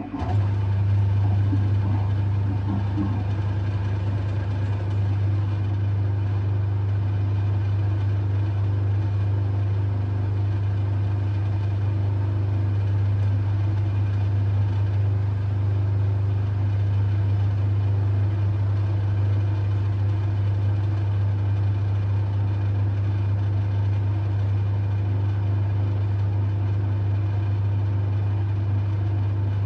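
LG F1222TD washing machine drain pump starting abruptly and running with a steady mains hum. The machine is in sud lock with thick suds, which the owner first took for a blocked pump.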